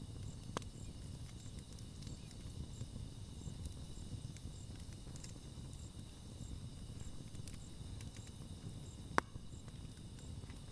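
Campfire burning with a low steady rumble and soft crackling, broken by sharp pops: a small one about half a second in and a louder one about nine seconds in. Insects chirp faintly and steadily in the background.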